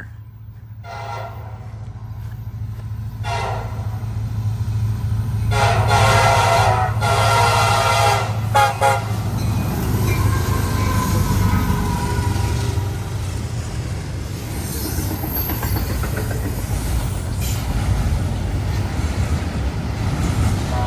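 Approaching freight train's locomotive air horn sounded three times, a brief blast, a shorter one, then a long one, over a building engine rumble. Then the train rolls past with a steady heavy rumble and wheel noise.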